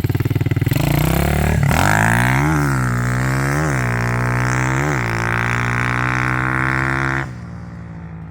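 A 150cc single-cylinder four-stroke pit bike engine running, fitted with a new high-flow air cleaner. Its revs climb, blip up three times in quick succession and hold high, then drop suddenly to a lower, quieter running note near the end.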